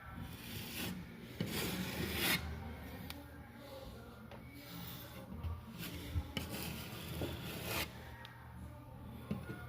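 Scraper blade spreading and smoothing spackle over patched holes in drywall, with a series of uneven scraping strokes. The strongest strokes come about two seconds in and again near the end.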